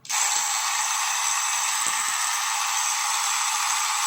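Trimmer switched on and running with a loud, harsh rattling buzz, the sign of a broken spring seat (spring cushion) inside it.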